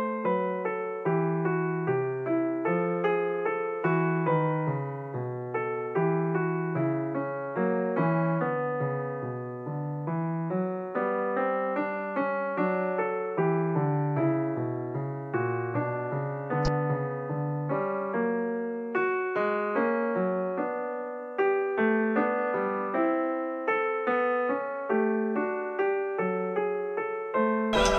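Background solo piano music: a steady run of struck notes over a moving bass line, each note fading after it is played. A single short click about two-thirds of the way through.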